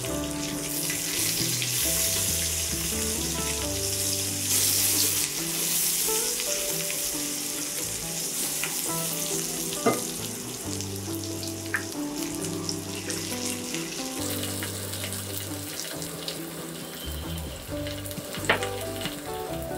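Sliced onion, garlic and dried red chillies sizzling steadily in hot oil in a stainless steel frying pan, with a few sharp clicks.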